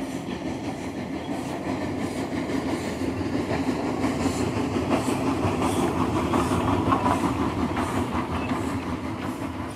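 A railway train running past, a steady rumble with an even clicking rhythm, growing louder to a peak about two-thirds of the way through and then dying away.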